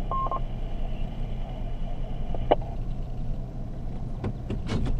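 Steady low hum of a vehicle idling, heard from inside the cab. A short radio beep comes right at the start, and a few sharp clicks come near the end.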